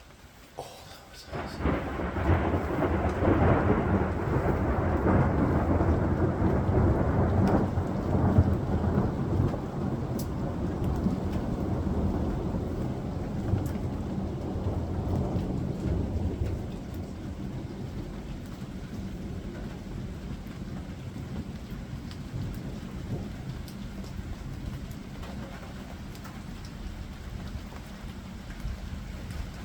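Thunder breaks about a second and a half in and rolls on as a long rumble, loudest for the first several seconds and then fading slowly. Steady rain falls throughout.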